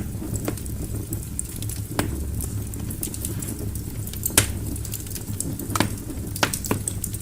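Wood fire burning in a fireplace: scattered sharp crackles and pops over a steady low rumble of the flames, the loudest pop a little past the middle.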